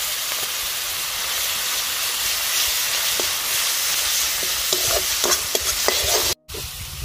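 Onion and garlic paste sizzling steadily in hot mustard oil in a metal kadai, stirred with a wooden spatula that scrapes and knocks against the pan several times in the second half. The sound drops out for a moment near the end.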